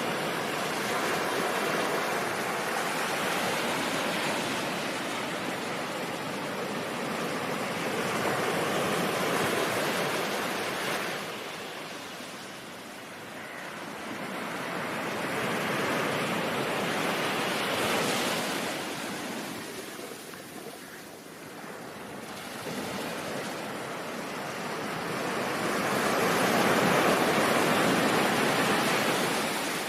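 Ocean surf, a steady wash of noise that swells and falls back in slow waves every several seconds, loudest near the end.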